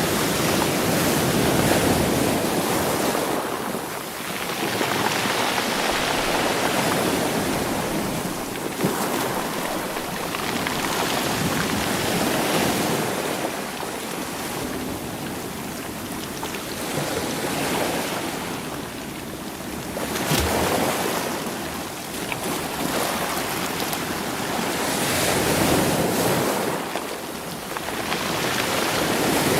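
Sea waves breaking and washing over a rocky shore, rolling stones against the rocks, in swells about every four to five seconds.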